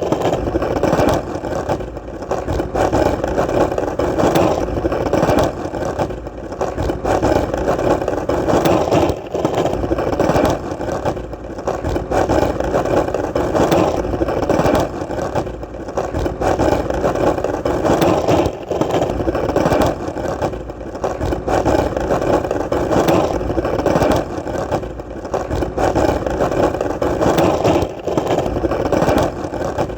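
Skateboard wheels rolling on hard, solid ground: a steady rolling noise with brief dips in level every few seconds.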